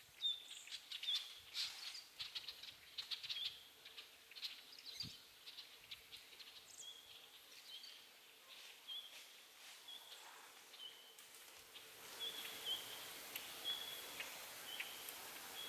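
Faint woodland ambience: a bird gives short high chirps, irregular at first and then repeated at a steady pace of about one every three-quarters of a second from about six seconds in, over scattered faint ticks and rustles. The background hiss grows louder about twelve seconds in.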